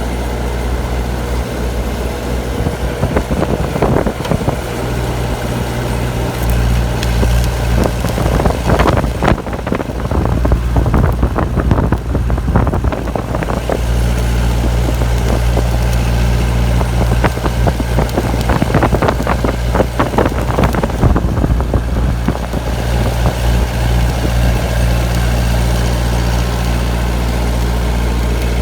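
An engine running steadily with a low, even hum. In the middle there are two spells of crackling noise.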